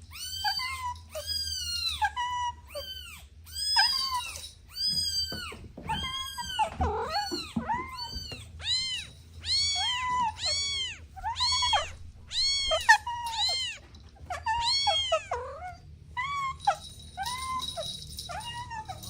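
Kittens mewing over and over: high-pitched calls that rise and fall in pitch, about one or two a second, sometimes overlapping as more than one kitten calls at once.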